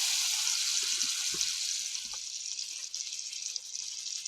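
Shrimp sizzling in hot butter in a wok, the sizzle slowly dying down, with a few faint knocks in the first couple of seconds.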